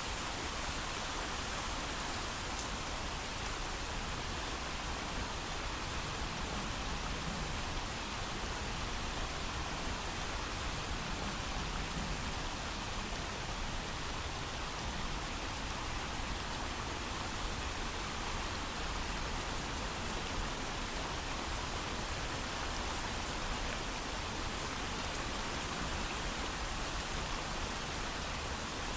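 Steady, heavy rain falling, with no thunder: an even, unbroken hiss.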